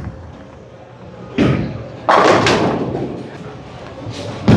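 Bowling alley impacts: a thud about a second and a half in, then a louder crash that fades over about a second, typical of a ball scattering pins, and a sharp knock near the end.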